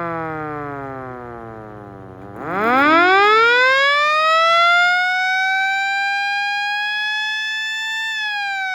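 Federal Signal Model EG 12-volt DC outdoor warning siren winding down, then spinning back up. Its wail rises steeply to a high, nearly steady pitch and begins to fall again near the end.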